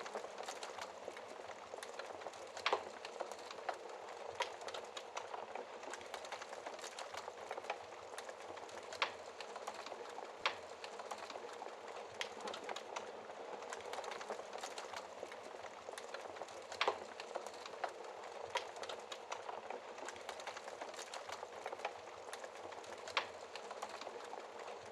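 Logs burning in a fireplace: dense crackling over a steady hiss, with about five sharper, louder pops scattered through.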